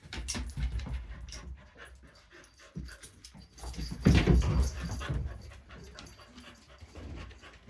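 Dogs tussling in rough play: scuffling and panting with many short clicks and knocks, and a louder burst about four seconds in.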